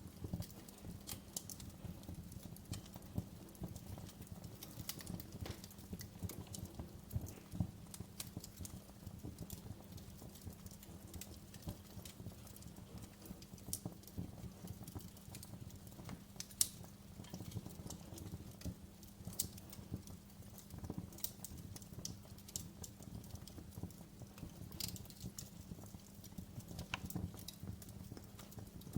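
Wood fire crackling in a fireplace: irregular sharp pops and snaps over a low steady rumble of burning, with one louder pop about halfway through.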